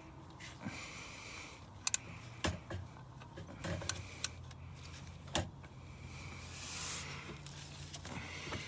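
Scattered sharp metallic clinks and clicks of tools and parts being handled, a few seconds apart, over a low steady hum.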